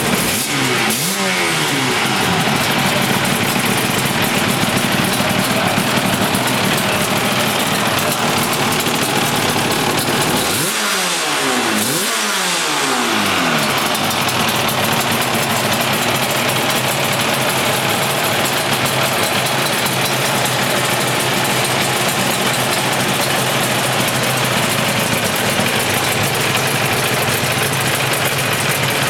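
500 cc four-cylinder two-stroke racing motorcycle engine running at idle, blipped about a second in and twice more around eleven and twelve seconds in, the revs falling back each time.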